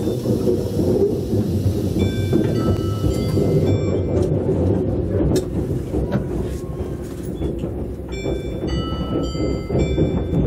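Tobu 200-series limited express car heard from inside, running with a steady low rumble on the rails and an occasional click. A short chime of several bell-like notes plays twice, about two seconds in and again about eight seconds in, ahead of an onboard announcement.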